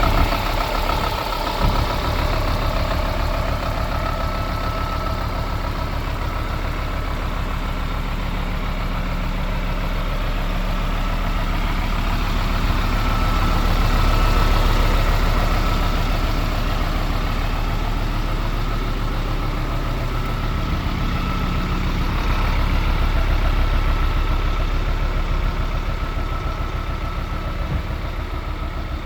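Scania P320 truck's five-cylinder diesel idling steadily, its loudness swelling a little twice.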